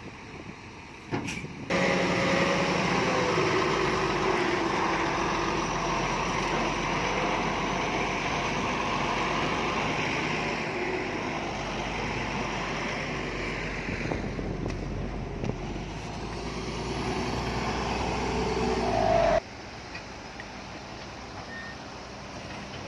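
Heavy diesel earthmoving machinery running close by, loud and rough. It starts abruptly about two seconds in and cuts off abruptly a few seconds before the end, leaving a fainter engine sound behind.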